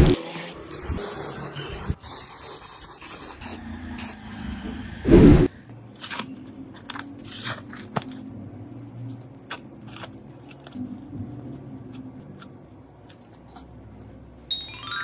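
A spray hissing for about three seconds, then small clicks and taps of handling, with one loud thump about five seconds in.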